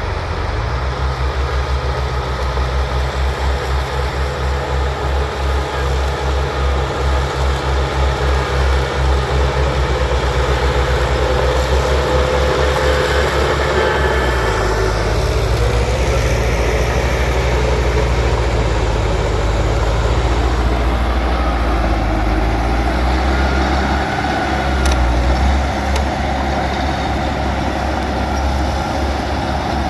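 Bulldozer's diesel engine running hard. Its low throb pulses for about the first half, then evens out, with wavering higher whines and squeals over it.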